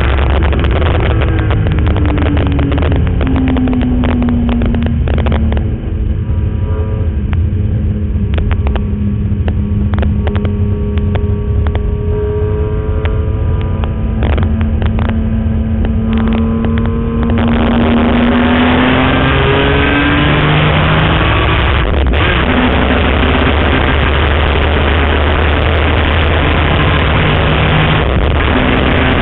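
BMW E46 M3's 3.2-litre straight-six under track driving: revs fall over the first few seconds and stay low and steady for a stretch, then the throttle opens about 17 seconds in and the revs climb hard, with a short break near 22 seconds like a gearshift before it runs on at speed.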